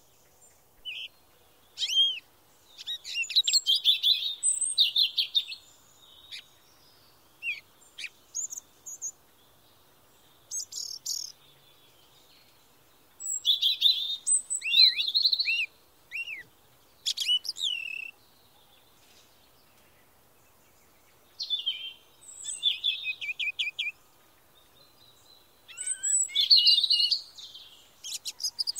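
Songbirds singing: repeated bursts of high chirps and quick trills, with a few short down-curving whistled notes, broken by pauses of a second or more.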